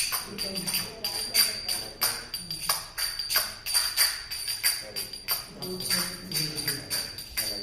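Kartals (small brass hand cymbals) being clashed unevenly by several people, about two to three strikes a second, with a high ringing tone sustained over the strikes.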